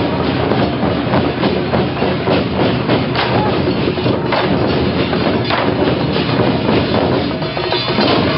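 Temple procession percussion playing loudly, a dense and unbroken run of rapid drum and clapper strikes.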